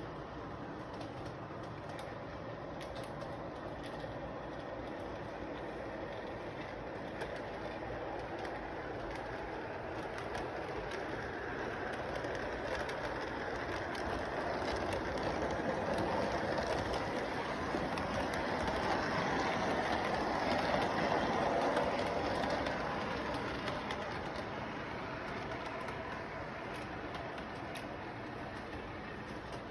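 A train running past, its rumble growing louder to a peak about two-thirds of the way through and then fading again.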